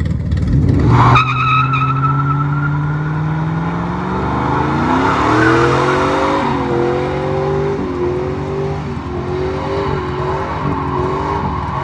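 GMC Sierra 5.3-litre V8 revving hard in a burnout: the revs climb, then bounce off the rev limiter in a choppy, repeated cut-out, with tyre squeal underneath.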